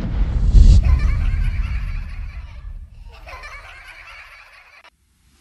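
A group of people laughing and chattering over a heavy low rumble, the whole fading steadily until it drops to silence near the end.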